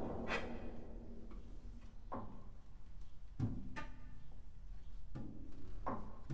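Contemporary chamber ensemble music for flute, clarinet, violin, cello, piano and percussion. Sparse, separate struck attacks, about six in all, each rings briefly over a quiet held low note.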